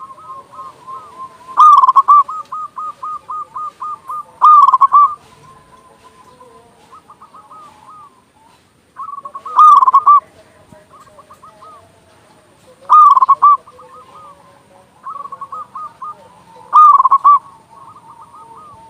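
Zebra doves (perkutut) cooing. A loud rolling coo phrase comes about every three to four seconds, with quieter strings of quick repeated coo notes between them. Lower coos from other doves run underneath.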